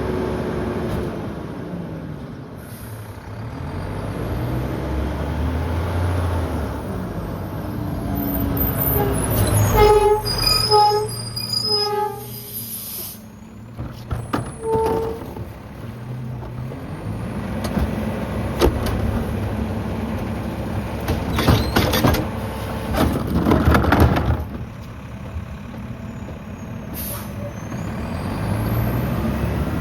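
Diesel engine of a Mack LEU garbage truck revving up and down as the McNeilus rear-loader packer cycles through heavy garbage. About ten seconds in there is a run of short pitched tones. Around two-thirds of the way through come loud clanks and crunching as the load is compacted.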